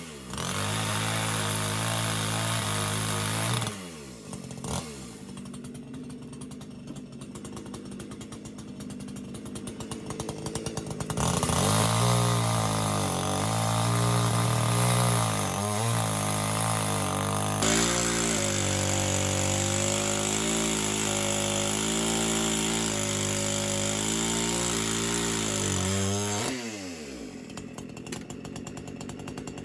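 Chainsaw engine running at high revs, dropping to a low idle about four seconds in, revving up again about eleven seconds in with its pitch dipping again and again, then falling back to idle near the end.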